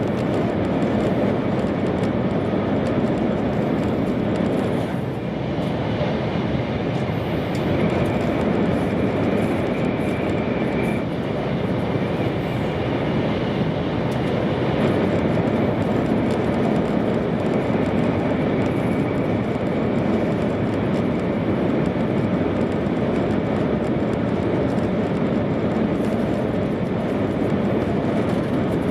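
Steady interior running noise of an E2 series Shinkansen train travelling at speed: a continuous rumble and rush, with a faint high whine that comes and goes about a third of the way in.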